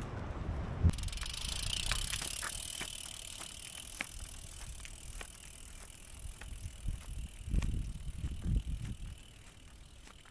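Loaded touring bicycle on a road: a steady hiss with scattered sharp clicks and rattles from the bike. Low gusts of wind hit the microphone later on.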